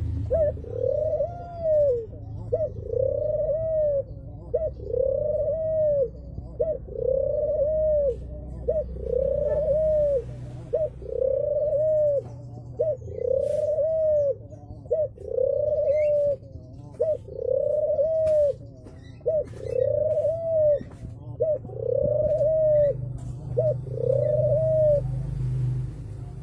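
Domestic ringneck dove (pied 'puter blorok') cooing over and over. Each coo is a short note followed by a longer note that rises and falls, repeated about every two seconds, over a low steady rumble.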